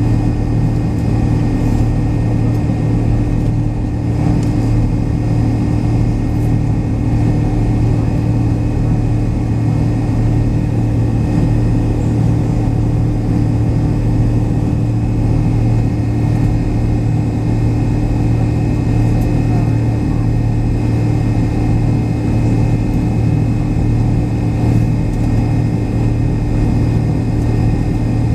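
Steady drone of a McDonnell Douglas MD-83's rear-mounted Pratt & Whitney JT8D-219 turbofan engines, heard inside the rear cabin: a strong low hum with a few steady whining tones above it, holding level throughout.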